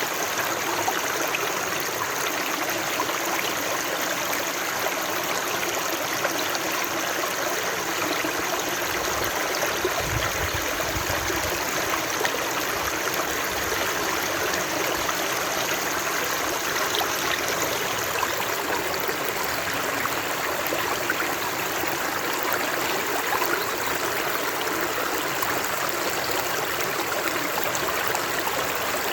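Running water, a stream flowing steadily with an even rushing noise, with a brief low rumble about ten seconds in.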